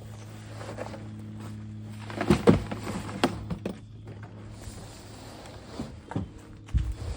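A run of sharp knocks and clatters, loudest about two and a half seconds in, with a few more single knocks near the end. These are the sounds of things being handled and moved around, over a low steady hum that fades away.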